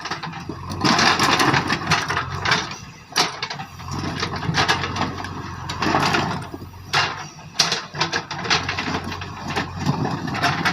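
JCB backhoe loader's diesel engine running under a steady low hum, with rough scraping and repeated clattering knocks as stones are shifted, rising and falling in loudness.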